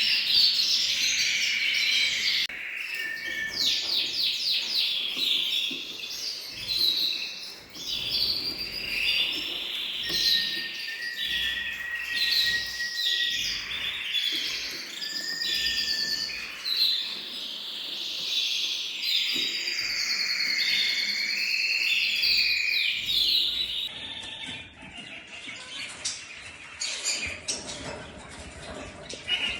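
Songbirds singing: a run of varied high-pitched phrases, some made of quick repeated notes, with a short steady whistle near the middle. About 24 seconds in, the recording cuts to a duller one full of rapid, clicky chirps.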